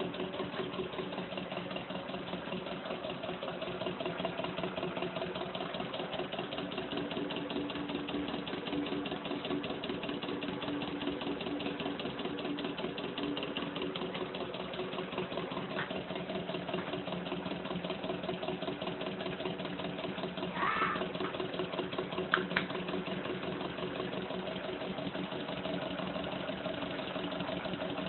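Small Stirling engine running steadily, a fast even mechanical clatter over a low hum. Near the end come a brief higher-pitched squeak and a sharp click.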